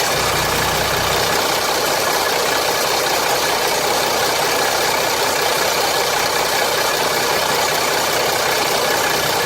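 Jeep Grand Cherokee 3.0 CRD's Mercedes OM642 V6 turbodiesel idling steadily with a rattle. The owner suspects the timing chain guides are breaking up, or that the rattle comes from the bottom end, along with low oil pressure at idle.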